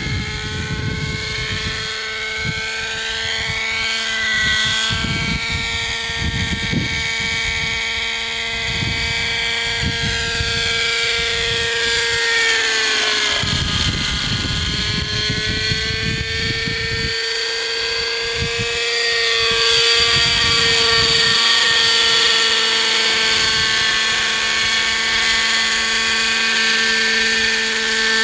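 Hirobo Sceadu model helicopter's .50-size two-stroke nitro engine and rotor running in flight, a steady high whine whose pitch sags and recovers about halfway through. Its revs are lower than they should be because the fuel mixture is not quite right.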